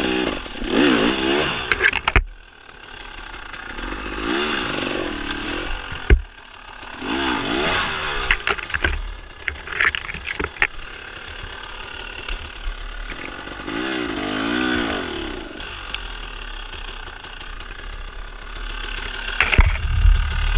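Enduro dirt-bike engine revving up and dropping back, about four times, each rev lasting a second or two. Sharp knocks fall between the revs, and heavy thumps come near the end.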